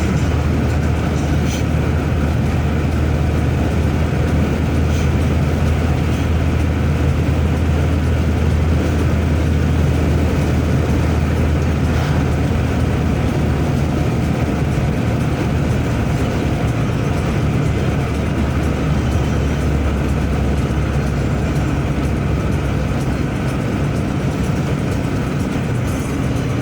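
Steady low rumble of engine and road noise from a moving vehicle, with no change in speed.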